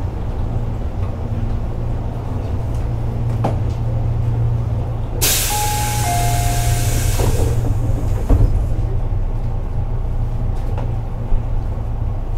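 Tobu 8000-series electric train running, heard from inside the car: a steady low rumble with a few clacks of the wheels over rail joints, one heavier knock about eight seconds in. About five seconds in, compressed air hisses out sharply for about two seconds.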